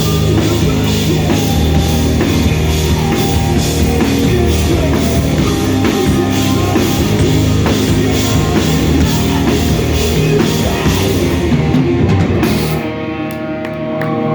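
Live rock band playing loud, with drum kit and guitars. Near the end the drums stop and a held guitar chord rings out as the song finishes.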